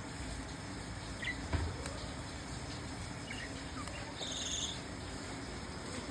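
Pet budgerigars giving a few sparse, short chirps that fall in pitch, with a brief buzzy trill about four seconds in, over steady background noise.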